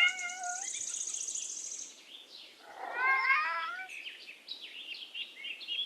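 Domestic cat meowing twice, one call at the start and a second about three seconds in.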